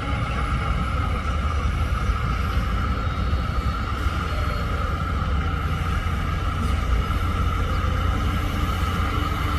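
Heavy earthmoving machinery's diesel engine running steadily under work, a deep low rumble with a steady whine above it.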